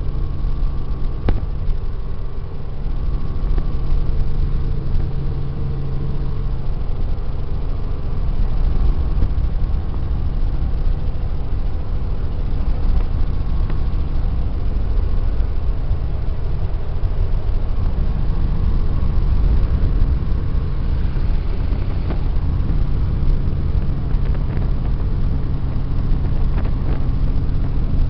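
Helicopter engine and rotor running steadily: a constant low rumble with a steady hum over it.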